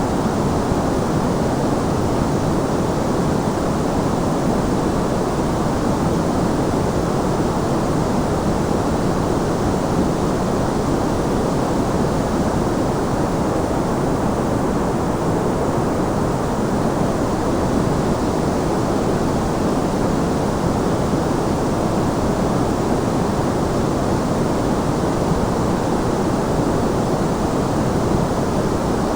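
Steady sleep-aid white noise: an unbroken, even hiss that never changes, heavier in the lows and mids than in the highs.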